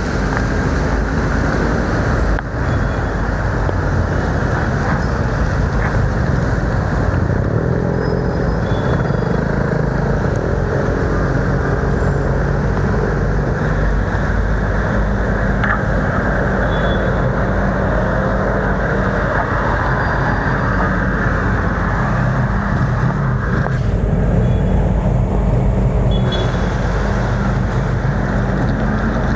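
Steady, loud road noise from a bicycle ride in heavy rain, with motor traffic on the road.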